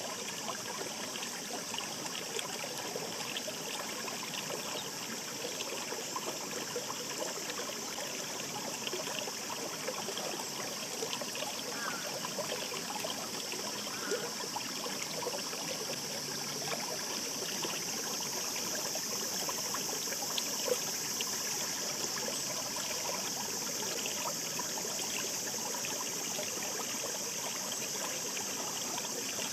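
Mountain stream babbling steadily over rocks: a shallow river's continuous rushing and trickling.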